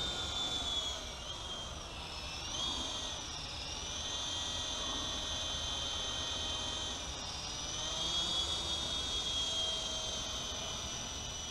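Electric motors of a UDI U12A coaxial RC helicopter whining in flight, the pitch dipping and rising several times as the throttle changes.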